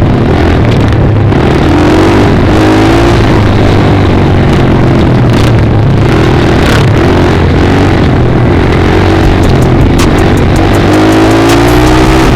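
Dirt bike engine running loudly while being ridden, its pitch rising and falling several times as the throttle is opened and closed. A rapid run of sharp clicks comes in near the end.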